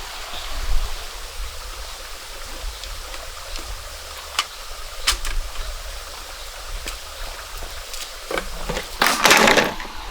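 A stream running, with scattered sharp clicks and knocks and a louder burst of noise lasting under a second about nine seconds in.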